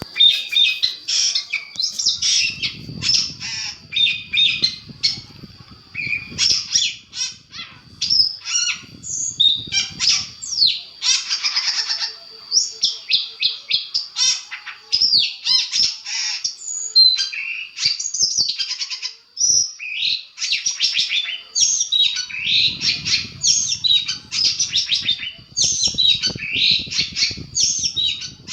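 Long-tailed shrike (cendet) song: a fast, unbroken string of high chirps, trills and harsh squawking notes. It is a 'masteran' training recording, played to provoke other cendet birds into answering. A low rumble runs under it twice.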